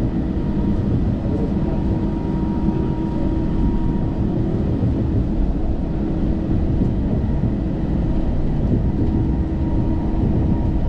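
Cabin running noise of a BTS Gold Line driverless train, a rubber-tyred Bombardier Innovia APM 300, travelling along its elevated guideway: a steady low rumble with a faint steady hum over it.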